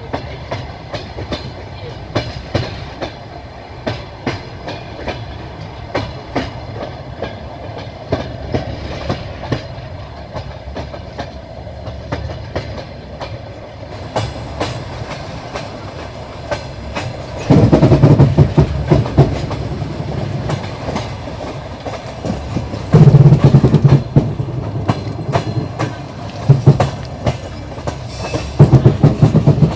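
Train wheels clacking over rail joints in a regular rhythm of paired knocks over a steady rolling rumble, heard from on board a moving train. Past the halfway point the rumble and rattle grow much louder in several stretches.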